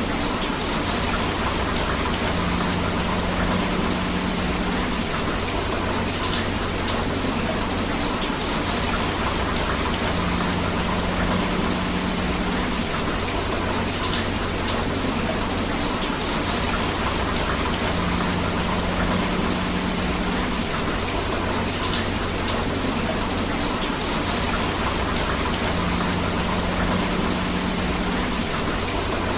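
Steady rain mixed with rushing river water: a dense, even hiss with no breaks. A faint low hum comes and goes about every eight seconds.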